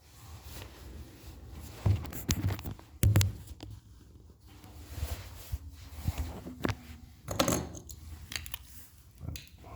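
Irregular clicks, knocks and scrapes of small objects being handled. The loudest knocks come about two and three seconds in, with another cluster later on.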